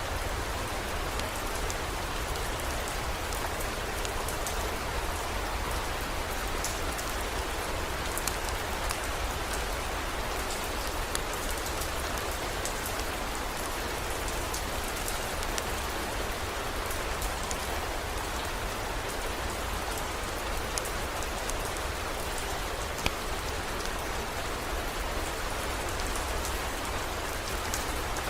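Steady heavy rain, with many small drop ticks and a constant low rumble underneath.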